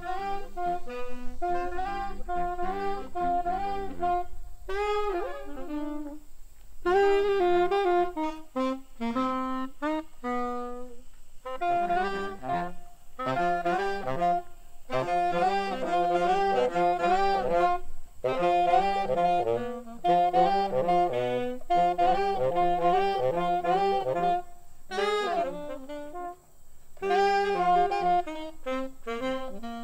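A saxophone playing a fast jazz melody in quick, separated notes, phrase after phrase with short pauses for breath and no other instrument clearly beneath it.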